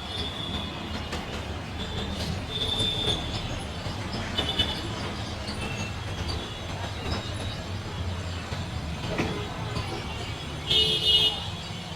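Intercity passenger train rolling into a station over a steady low rumble, its wheels squealing in short, high-pitched bursts, with a louder squeal near the end.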